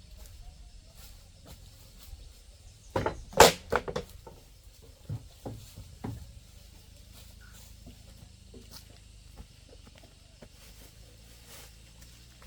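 A quick cluster of sharp knocks about three seconds in, followed by a few softer knocks, then only faint scattered clicks.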